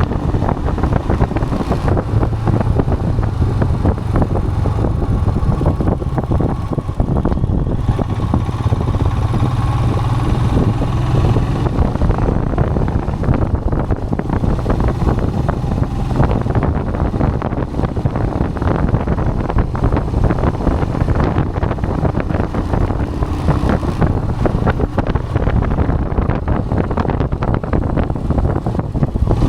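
Royal Enfield Himalayan motorcycle engine running steadily while riding, with wind buffeting the microphone.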